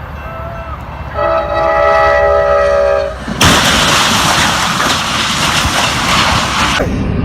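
A train's multi-tone air horn blasts for about two seconds, then the train rushes past with a loud, even roar of wheels on rails that cuts off near the end.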